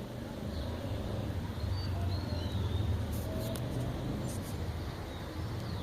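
Outdoor ambience: a steady low rumble with a few faint, high, falling bird chirps over it, and a few brief sharp ticks about three and four seconds in.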